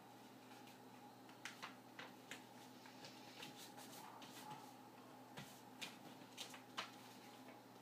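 Sheet of paper being folded and creased by hand: a scatter of short crinkles and taps over a faint steady hum.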